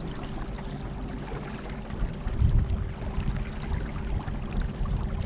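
Electric trolling motor running with a thin steady whine, over water sounds from the moving boat and a low uneven rumble that swells a little past the middle.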